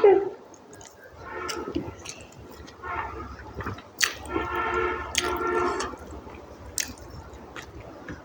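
Close-up wet chewing and squishing of khichuri and curry being eaten, with sharp mouth clicks. A steady pitched tone sounds in the background about a second in and again from about four to six seconds.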